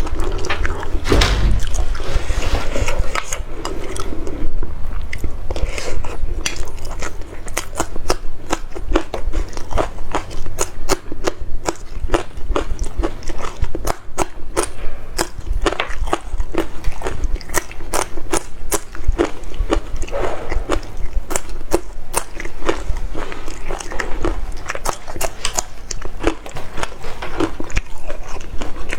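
Mukbang eating sounds: food being bitten and chewed close to the microphone, a steady run of sharp clicks several times a second.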